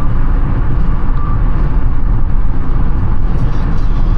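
Steady rumble of a car in motion, engine and tyre-on-road noise, heard from inside the cabin.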